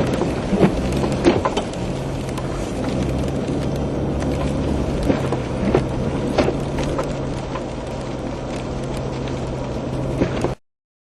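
Inside a moving car: steady engine and road hum with scattered sharp ticks and knocks. The sound cuts off abruptly near the end.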